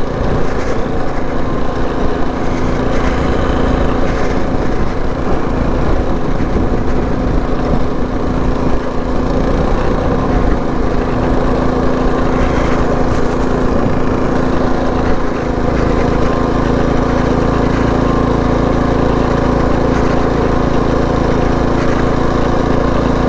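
Predator 224cc single-cylinder four-stroke engine on a mini bike, running under way at a steady, even pitch with a low rumble underneath.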